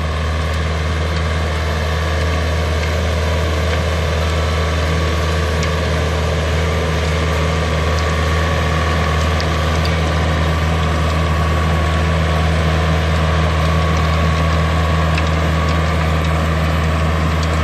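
Yanmar US545 tractor's three-cylinder 45 hp diesel engine running steadily at its set throttle speed, with a light mechanical rattle and a few faint clicks over it.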